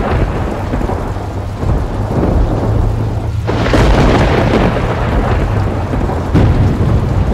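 Thunder with rain: a long rolling rumble, a sudden sharp crack about three and a half seconds in, and another clap near the end.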